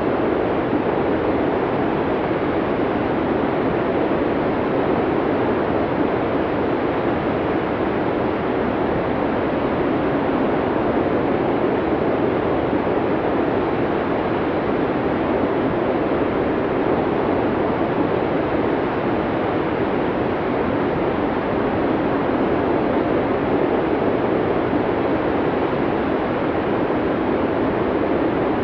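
Snowstorm wind: a steady, even rushing noise with no distinct gusts or breaks.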